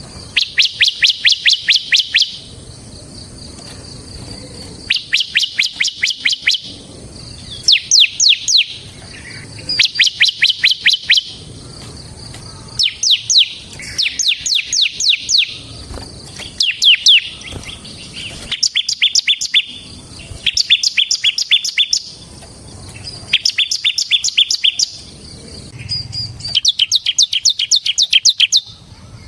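Bar-winged prinia (ciblek) singing: a rapid, rattling trill of quick sharp notes, repeated in phrases of one to two seconds with short pauses between them.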